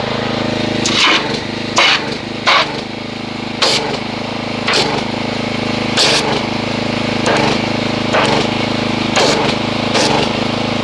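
Pressure washer running with a steady motor-and-pump hum. Short, sharp noises sound over it about once a second.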